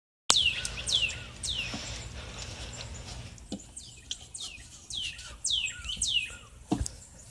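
A bird calling: a series of quick high chirps, each falling sharply in pitch, three close together, then a pause and a run of about five more. A single sharp knock near the end.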